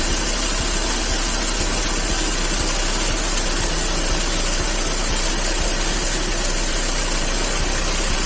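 BMW M43TU four-cylinder engine idling steadily, with a tapping noise that comes from a knocking DISA intake valve flap.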